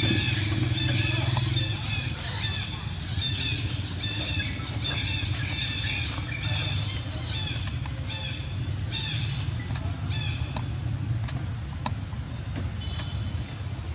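A bird's short, high warbled call repeated about one and a half times a second, fading out about ten seconds in, over a steady low engine hum that is strongest in the first two seconds.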